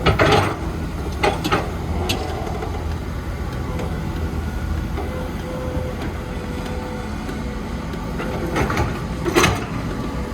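Heavy construction machine's diesel engine running steadily, with several sharp clanks and rattles, a few right at the start and two more near the end, typical of an excavator working its bucket while loading a dump truck.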